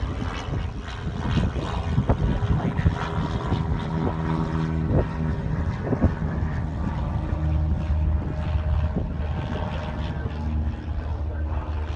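Piston engine of a light propeller plane droning steadily, mixed with heavy wind buffeting the phone's microphone.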